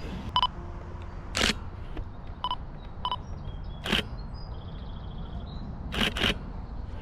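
A camera taking photos: three short focus-confirmation beeps and four shutter clicks, the last two in quick succession. Faint bird chirps can be heard under them.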